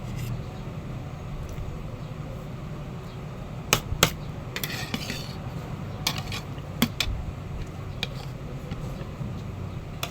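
Utensils clinking against a plate during a meal: about five short sharp clicks and a brief scrape, over a steady low hum.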